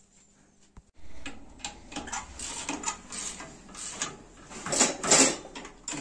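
Irregular clicks, knocks and rattling of tools and metal parts being worked by hand. A single click comes just under a second in, then a run of clatter, loudest about five seconds in.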